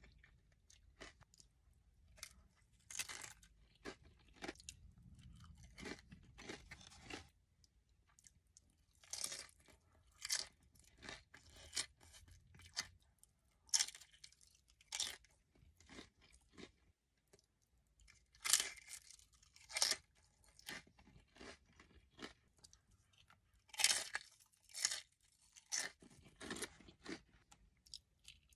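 Close-miked eating: crunching bites and chewing of food, a string of sharp, irregular crunches with brief pauses between mouthfuls.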